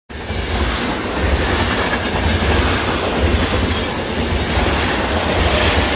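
Train running on rails: a steady low rumble with rattling wheel and carriage noise.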